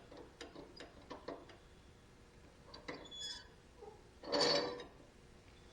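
Small metal parts and hand tools clicking and clinking as a zero-turn mower's lap-bar linkage is fitted together, in short scattered taps. A louder brief rasping rush comes about four and a half seconds in.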